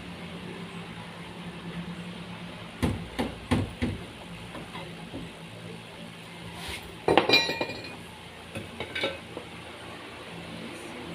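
Carpentry work: a hammer knocks three times in quick succession, then metal clinks and rattles about seven seconds in, with a few lighter clicks after, over a steady low hum.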